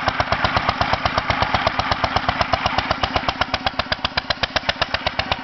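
International Harvester 3–5 hp single-cylinder stationary engine running, each firing stroke a sharp exhaust pop in an even beat of about six a second.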